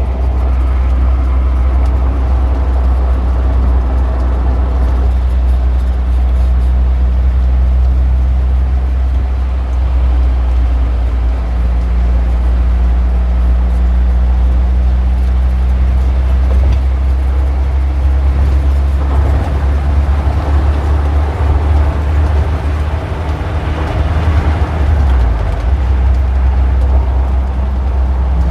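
Street traffic: a steady low engine rumble from nearby motor vehicles runs throughout. A louder rush of vehicle noise builds from about two-thirds of the way in and fades near the end, like a vehicle passing.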